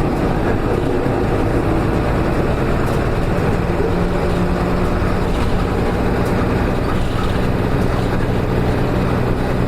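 Nissan Diesel KK-RM252GSN route bus running, heard from inside, with a steady diesel engine hum; a low engine tone comes up more strongly about three and a half seconds in. The engine sound is abnormal; the bus was recorded as a noisy vehicle.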